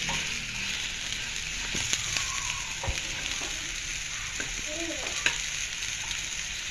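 Sliced onions sizzling in hot oil in a frying pan as they are stir-fried with a slotted spatula, which knocks and scrapes against the pan a few times.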